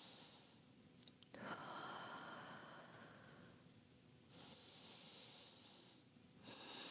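A person breathing slowly and deeply: about three faint, long breaths, each lasting a second or two, with a couple of small clicks about a second in.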